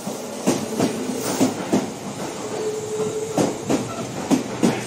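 Tobu Railway Series 8000 electric train pulling out of the station past the platform, its wheels clicking over the rail joints, often in quick pairs, over a steady running rumble. A short steady whine sounds a little past halfway.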